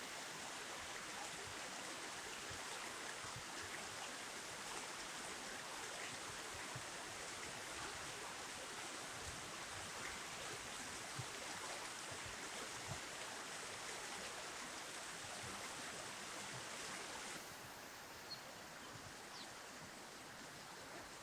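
Steady rush of flowing river water, a little quieter from about seventeen seconds in.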